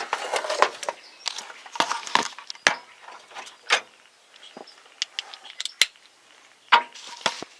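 Metal hand tools, sockets and wrenches, clinking and rattling as they are handled, a string of sharp, irregular clinks.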